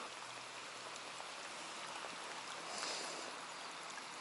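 Steady rain falling on the lake surface, an even hiss that swells briefly about three seconds in.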